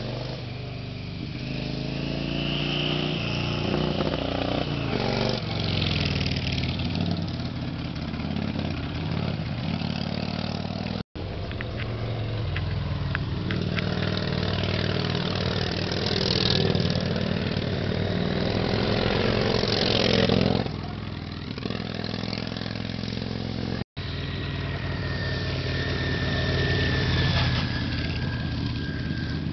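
Harley-Davidson V-twin chopper engine running, its pitch rising and falling again and again as the bike speeds up and eases off, with two sudden breaks where the sound cuts out for an instant.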